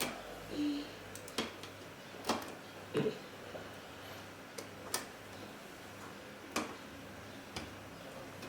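Irregular light clicks and knocks, about eight of them spaced unevenly, from hands taking the T-con board out of an LCD TV.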